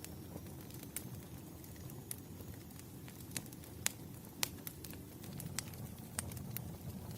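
Bonfire burning with a steady low rumble and scattered sharp crackles and pops, the loudest pair about four seconds in.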